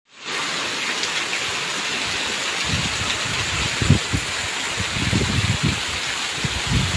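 Heavy rain pouring onto puddled ground, a steady hiss. From about two and a half seconds in, irregular low rumbling bumps come in under it.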